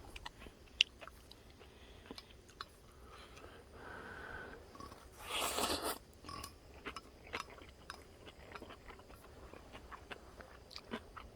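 A person chewing and biting food close to the microphone, with many small crunching clicks and a brief, louder rushing noise about halfway through.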